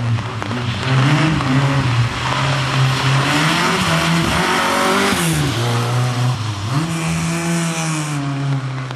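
Opel Corsa rally car's engine running hard at high revs, its pitch dropping and climbing again twice, over a rush of tyre noise.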